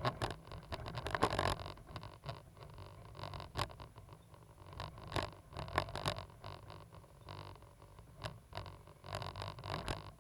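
Cat 320GC hydraulic excavator running, a steady low engine hum under irregular scraping and clicking noises that come and go every second or so.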